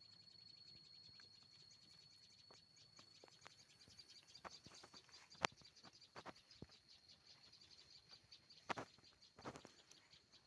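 Faint outdoor ambience: a steady, high-pitched, rapidly pulsing trill that fades after about four seconds, then scattered sharp clicks and a couple of brief rustles.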